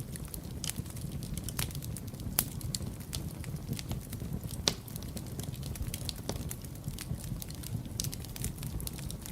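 Wood fire burning in a fireplace: a steady low rumble of flames with frequent irregular crackles and snaps, two sharper pops a little over two seconds apart.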